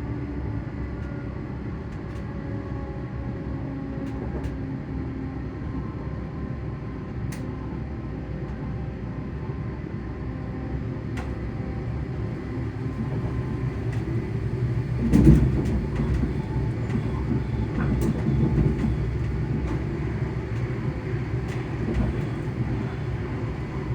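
Traction motors of a ScotRail Class 385 electric multiple unit humming as the train runs, heard over steady wheel-and-track rumble. Faint whining tones slowly fall in pitch over the first few seconds. A single loud thud comes about 15 seconds in.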